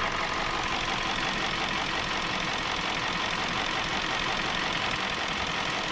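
2017 Hyundai Sonata engine idling steadily with the hood open, misfiring on cylinder 3 (code P0303).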